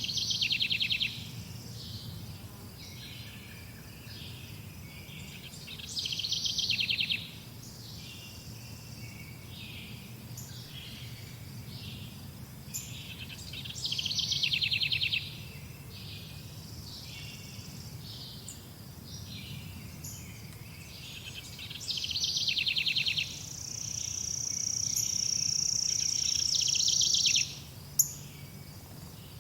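Several birds chirping, with one bird repeating a loud, rapid trill about a second long roughly every eight seconds, four times. Near the end a steady high note is held for about three seconds.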